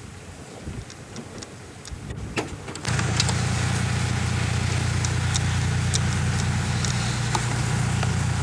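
A few faint clicks, then about three seconds in a motor vehicle engine's steady low drone comes in suddenly and loud, and runs on evenly.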